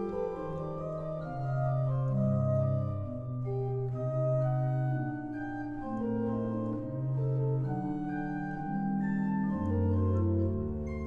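Pipe organ playing sustained chords over a moving bass line, the notes changing every half second to a second.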